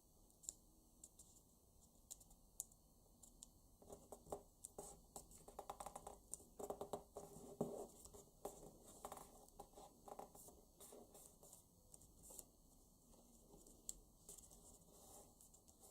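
A paper banknote being folded and creased by hand: faint crinkles, taps and clicks, busiest in the middle.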